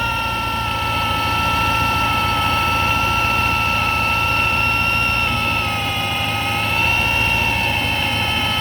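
Supercharged Ford Mustang Mach 1 engine running with a steady high whine over its low hum. The pitch dips slightly about six seconds in and comes back up. The whine is from a supercharger judged bad, running with its intake hose off.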